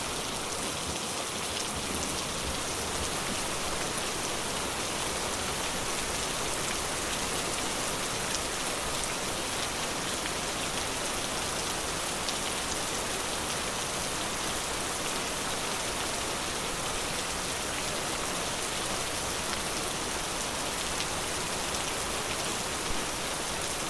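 Steady rain falling, an even hiss with a few louder drops tapping now and then.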